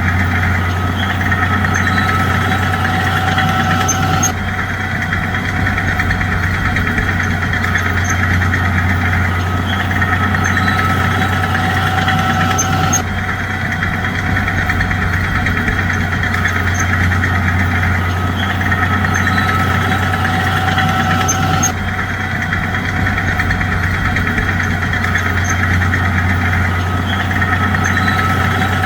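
Bulldozer's diesel engine running steadily, with a strong low hum and no revving. The same stretch of sound repeats about every nine seconds, with a sudden join at each repeat.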